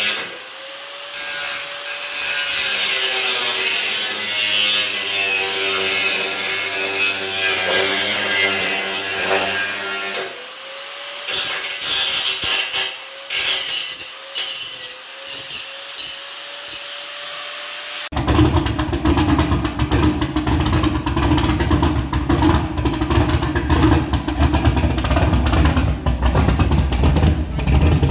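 A power tool's motor whines up to speed and runs while working, twice. Then, about two-thirds of the way in, it gives way abruptly to the loud, steady low rumble of a vehicle engine and road noise.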